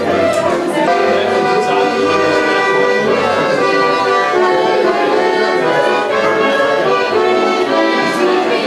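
Accordion music: a melody played over sustained chords.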